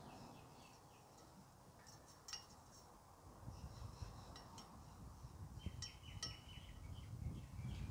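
Quiet outdoor ambience with small birds chirping in the distance in quick runs of short high notes, a couple of sharp light clicks, and a low rumble through the second half.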